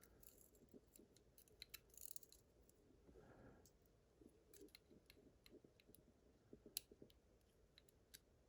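Near silence with faint, scattered small clicks: the pins and springs of a pin tumbler lock being handled as its pin stacks are taken out, with one slightly louder click about two thirds of the way through.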